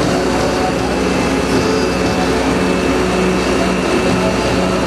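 Diesel engine of a Magirus turntable ladder truck on a Mercedes-Benz Atego chassis, running steadily to power the ladder's hydraulics, with a steady hum and a faint high whine on top.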